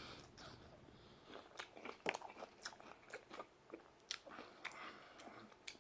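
A person biting into and chewing pizza close to the microphone: soft, irregular clicks and crunches from the mouth.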